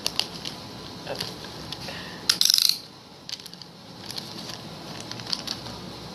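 Small hard parts (the new trucks and wheels) clicking and rattling as they are handled, with a louder rattle lasting about half a second a little over two seconds in.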